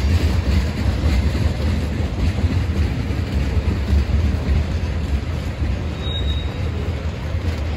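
Freight train of tank cars rolling past close by, a steady rumble of wheels on rail, with a brief high squeal about six seconds in.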